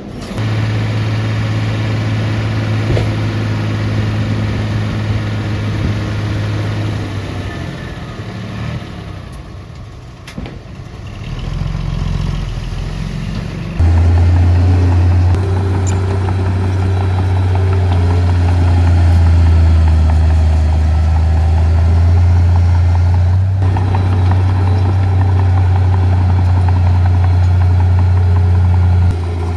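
Diesel engine of heavy earth-moving equipment running with a steady low drone; it eases off in the middle, then comes in abruptly louder about 14 seconds in and holds steady.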